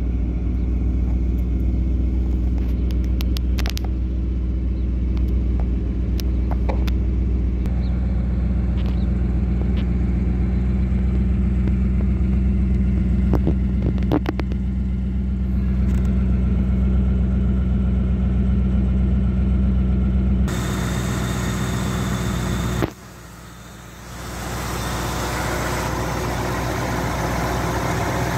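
1984 Pontiac Firebird's L69 5.0-litre HO V8 idling steadily, with a few light clicks and knocks over it. A little past two-thirds through the sound changes abruptly, drops away for about a second, then the idle returns with more hiss.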